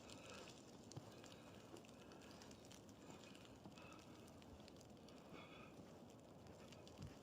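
Near silence in a snowy forest: faint outdoor ambience with a few soft ticks and a couple of short, faint high sounds around the middle.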